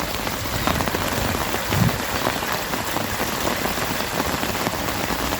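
Steady rain falling, an even hiss dotted with many small drop hits.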